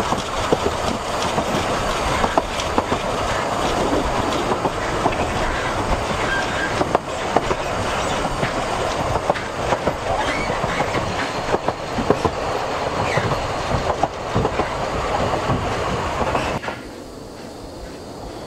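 Narrow-gauge train carriage running along the line: a steady rumble with frequent irregular clicks and knocks from the wheels on the rails, and a few brief faint squeals. Near the end the sound drops suddenly to a quieter, duller rumble.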